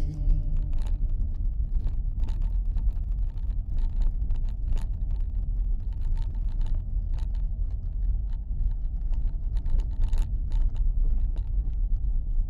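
Dacia Duster driving off-road on a rough forest track: a steady low rumble with frequent short knocks and rattles.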